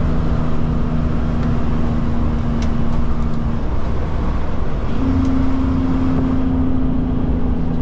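Kenworth K200 road train's Cummins diesel engine running under way, heard from inside the cab with steady road noise. About three and a half seconds in, the engine hum breaks off for about a second and comes back at a slightly higher pitch.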